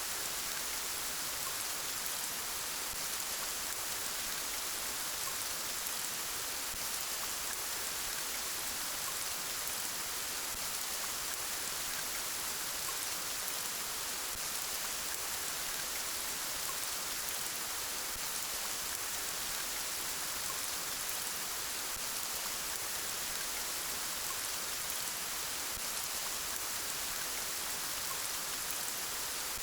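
Steady, gentle rain: an even, unbroken hiss that holds the same level throughout.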